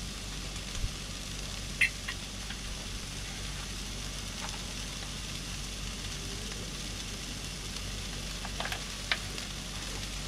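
Onions, garlic and ginger sizzling steadily in a hot pan, with a few small pops and clicks, loudest about two seconds in and again near the end.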